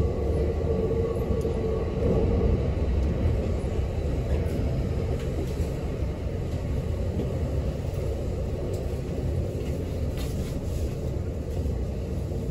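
Kintetsu electric train heard from inside the front car, a steady low rumble as it rolls along the station platform on arrival. A steady motor whine in the first couple of seconds fades out.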